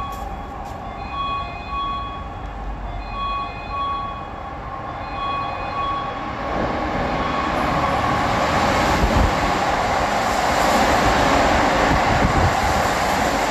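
A station approach-warning tone sounds as a close pair of electronic beeps about every two seconds. About six seconds in, a Keikyu limited express train runs through the station without stopping. The rumble of its wheels on the rails swells to a loud rush as the cars pass.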